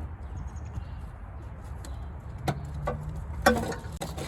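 A few sharp metallic clicks and clinks of a hand tool working a fastener loose in an engine bay, the loudest about three and a half seconds in, over a steady low hum.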